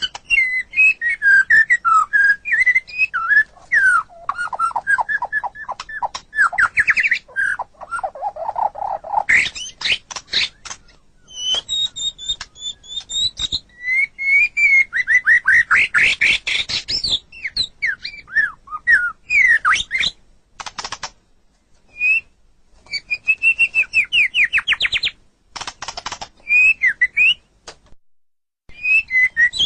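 White-rumped shama (murai batu) singing a long, varied song of clear whistles, rapid trills and chattering phrases, with short pauses about two-thirds of the way through and near the end.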